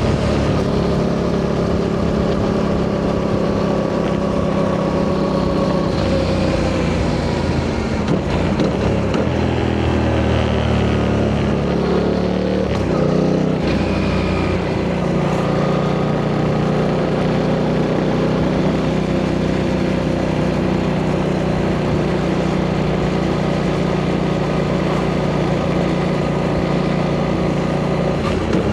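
Yamaha MT-07's 689 cc CP2 parallel-twin engine running under way through its stock exhaust. The engine note shifts up and down near the middle, then holds a steady cruise.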